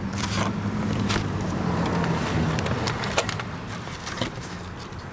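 A few sharp metallic clicks from a motorcycle roller chain being fed through over the sprockets. Under them runs a steady low engine hum that fades out about three seconds in.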